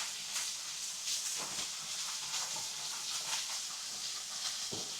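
Meat and onions sizzling on a hot marble slab over a fireplace fire: a steady hiss with scattered small crackles.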